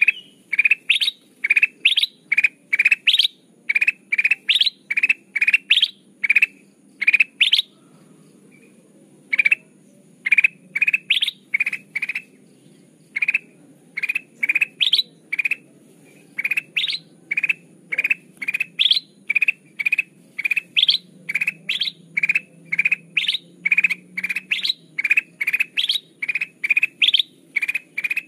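Kutilang emas bulbul calling in a long run of short, upward-sweeping chirps, two or three a second, with one break of about two seconds early on the way through.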